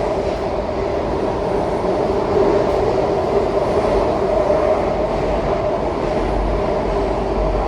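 Washington Metro 7000-series subway train running between stations as it nears the next stop: a steady rumble with a steady two-note hum.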